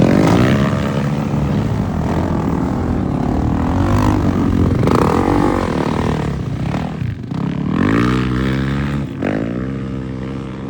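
Dirt bike engine running under load as it is ridden, its pitch rising and falling several times with the throttle.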